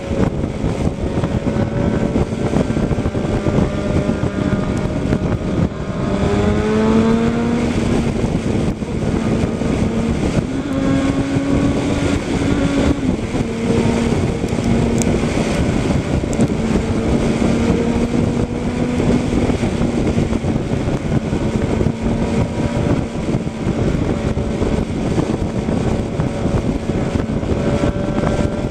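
Vehicle engine running under steady road noise, the engine note climbing about six seconds in and changing pitch again a few times after.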